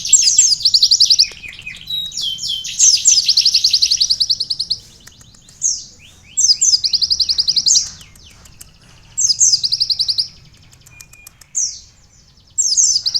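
Konin songbird singing canary-style song: phrase after phrase of rapid, high trills, each lasting about one to two seconds, separated by short pauses and single swooping notes.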